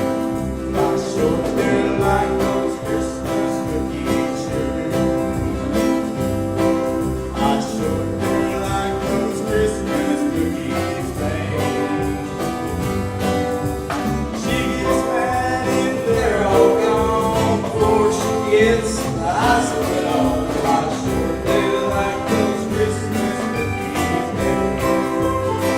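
A choir singing with instrumental accompaniment, sustained chords with a wavering vocal line standing out partway through.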